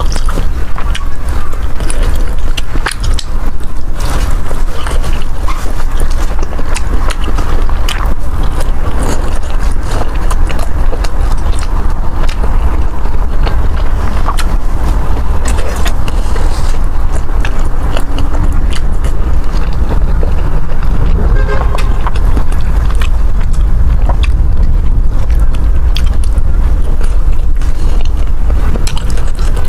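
Close-miked eating: chewing of chewy rice cakes and fish balls, with many small wet clicks and smacks, over a constant deep rumble.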